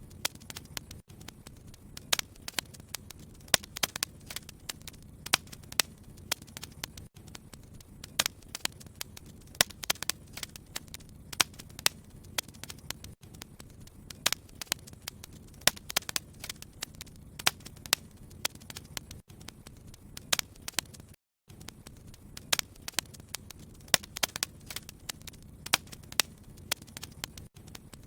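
Wood fire in a fireplace crackling, with frequent sharp irregular pops over a low steady rumble. The sound cuts out for a moment about three-quarters of the way through.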